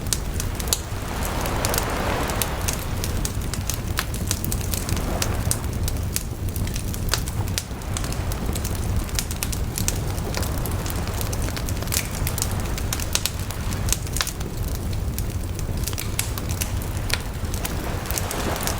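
Bonfire crackling and popping, with many sharp little snaps over a steady low rumble of the flames and a soft rushing swell about two seconds in.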